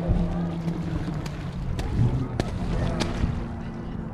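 A low steady motor hum with wind on the microphone, and several sharp clicks spread through it.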